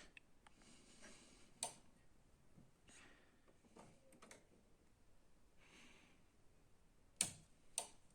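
Near silence with a few sharp clicks and taps from handling printer parts, the two loudest close together near the end; no motor is heard running.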